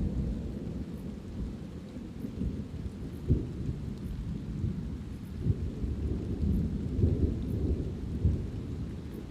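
Thunder rumbling low and continuously, swelling louder several times, over the steady hiss of light rain.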